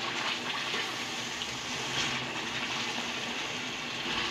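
Chicken masala with freshly added yogurt frying in oil in a steel pot, a steady sizzle as it is stirred with a metal spoon: the bhuna stage, cooking the masala down in its oil.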